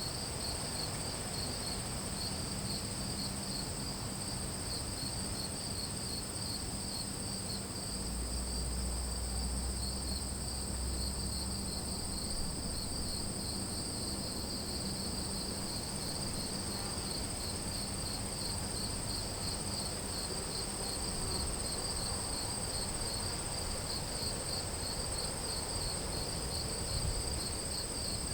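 An outdoor insect chorus of crickets: one steady high-pitched trill with a fast pulsing chirp just below it, unbroken throughout. A faint low rumble rises briefly about eight seconds in.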